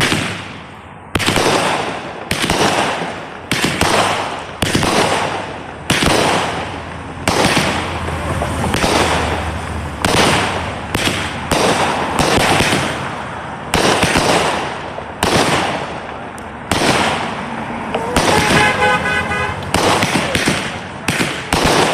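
A Magnus Fireworks TMI 25-shot 200 gram firework cake firing, its shots going off one after another roughly every second, each bang trailing off. About three-quarters of the way through, a short pitched whistling tone sounds among the shots.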